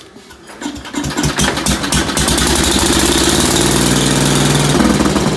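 Ford tractor's carbureted engine cranked and catching about a second in, speeding up with a little throttle and running strongly through the muffler, then dropping in speed toward idle near the end. The low-speed needle has just been adjusted, so it fires and holds without popping.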